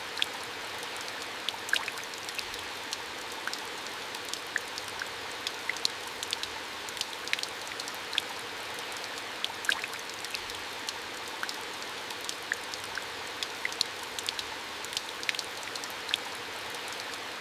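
Falling water: a steady hiss with many irregular, sharp drop-like ticks scattered through it.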